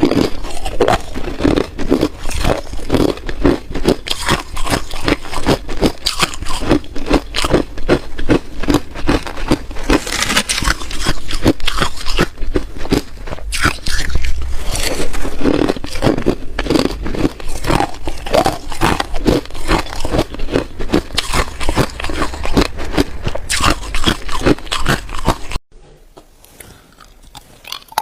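Ice being bitten and chewed close to the microphone: rapid, dense crunching and cracking of ice between the teeth, which stops suddenly near the end.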